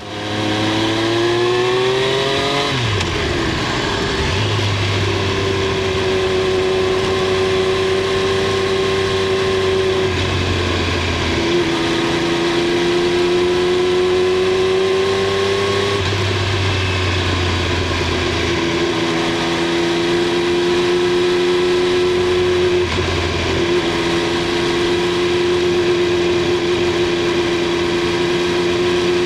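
Triumph Street Triple 765 R's inline three-cylinder engine and exhaust under way, heard from under the seat. The revs climb for the first couple of seconds, dip about three seconds in, then hold steady, with the pitch dropping and climbing again a few times.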